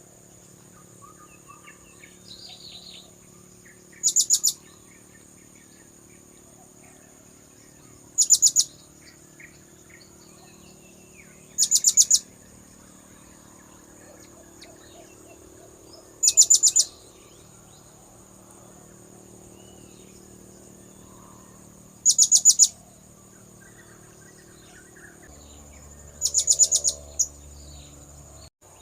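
Blue-crowned hanging parrot (serindit) lure call: short, very high-pitched bursts of rapid chirps, each about half a second long, repeated six times every four to six seconds. Between them, a faint steady high insect-like tone and scattered faint chirps.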